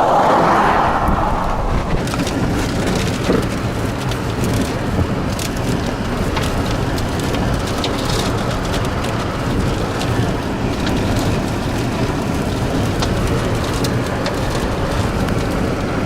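Heavy rain pelting down steadily, with many scattered sharp drop impacts. A louder rush fades away over the first two seconds.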